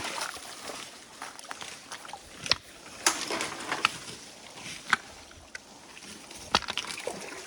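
Water sloshing and splashing in a stream, with a few sharp, irregularly spaced splashes or knocks.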